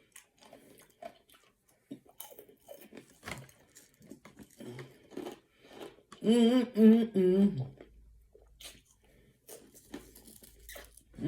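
A person chewing crispy plant-based pork rinds, with small crunches through the first half. Around the middle comes a pleased three-note "mm-mm-mm" hum, and another hum starts near the end.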